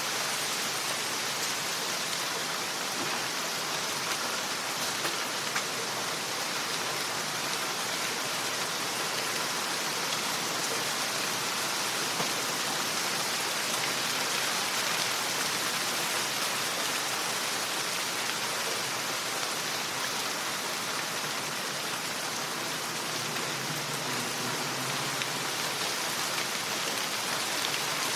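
Steady rain falling, an even hiss with no let-up, with a few slightly louder drop hits now and then.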